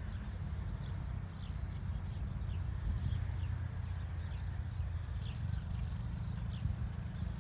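A motorbike engine running steadily at a low, even rumble, with birds chirping briefly and repeatedly over it.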